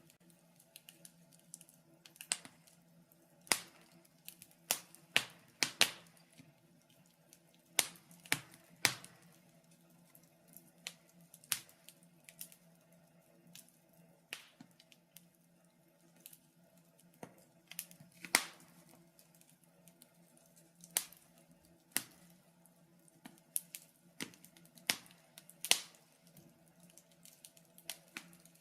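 Wood fire crackling in a fireplace: irregular sharp pops and snaps, a few to several every couple of seconds, over a faint steady low hum.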